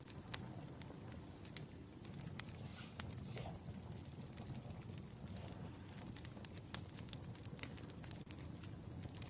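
Wood fire burning: a low steady rumble of flames with irregular sharp crackles and pops, the loudest pop about two-thirds of the way through.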